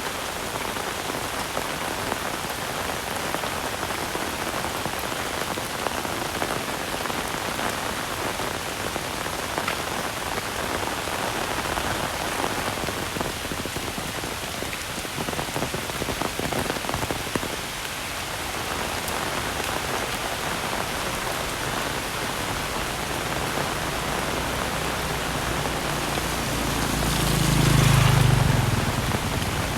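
Heavy rain falling steadily on the ground and surfaces. Near the end a motor vehicle passes close by, swelling and fading over a few seconds and briefly the loudest sound.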